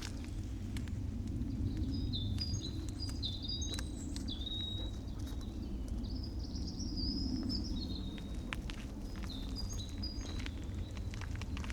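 Woodland birdsong, a bird singing short, high whistled phrases over several seconds, heard over a steady low background rumble with scattered faint clicks.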